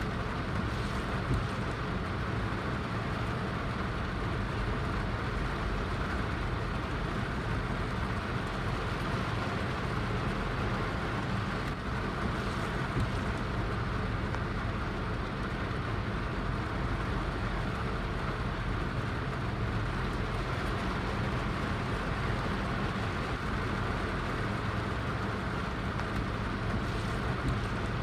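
Heavy rain falling in a steady downpour: an even, unbroken hiss with a low rumble underneath.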